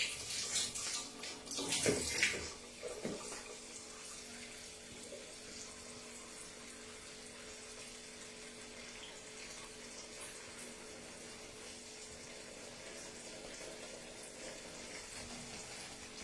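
Water running from a kitchen tap into a sink, with louder splashing and clatter in the first couple of seconds, then a steady flow.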